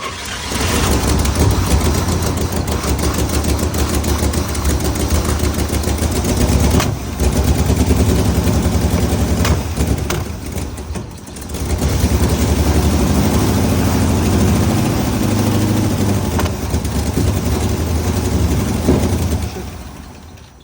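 1967 International Harvester Loadstar 1600 truck engine firing and running roughly, sagging twice and dying away near the end. The stumbling comes from an ignition timing problem, with points that may not be set right.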